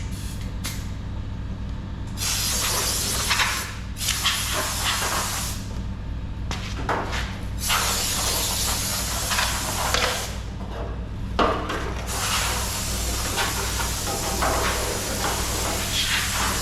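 Compressed-air blow gun blowing off parts: several long hissing blasts, the first starting about two seconds in, with short pauses between them, over a steady low hum.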